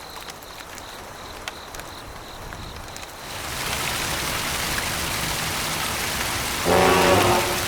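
Steady rain-like hiss of running or falling water that starts about three seconds in, after a quieter stretch with a faint high tone and a few clicks. A short pitched tone sounds near the end.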